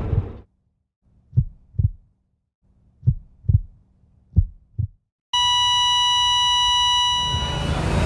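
Heartbeat sound effect: three slow double thumps, lub-dub, out of silence. About five seconds in, a steady high electronic beep begins, the flatline tone of a heart monitor, and it blends into music near the end.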